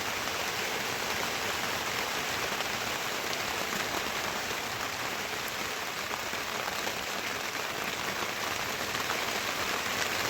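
Steady rain falling: an even, dense patter of drops that holds level throughout.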